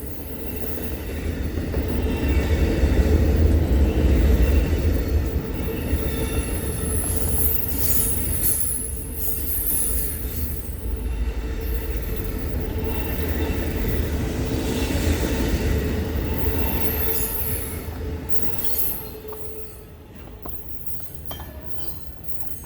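A passing train's cars rolling by on the rails with a heavy low rumble and wheel squeal, shrill squeals rising twice. The rumble drops off shortly before the end as the train moves away.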